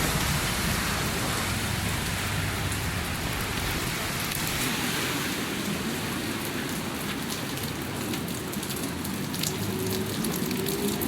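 Heavy rain pouring steadily, with sharp individual drop taps growing more frequent in the second half.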